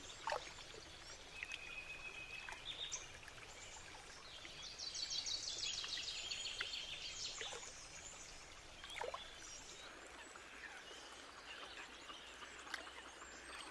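Faint riverside ambience: water running softly under scattered songbird chirps, with a fast, high trilling bird song for a few seconds around the middle.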